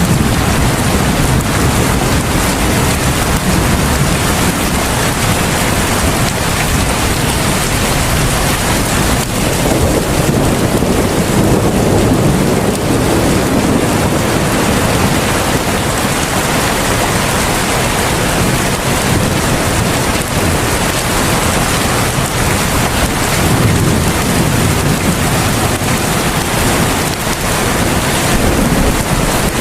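Heavy rain falling steadily: a dense, even hiss with a deep rumble underneath that swells a little around the middle.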